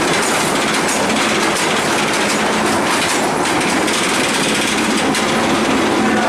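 Steel roller coaster train running along its track, a loud steady rush of wheels on steel rail with rattling and clatter.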